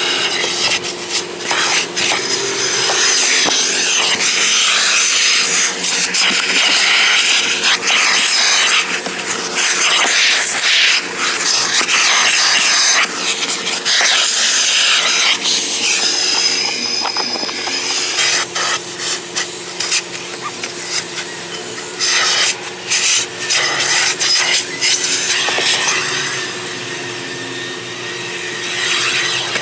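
Stiff brush scrubbing a car floor mat in long spells of back-and-forth strokes, with a steady hum under it.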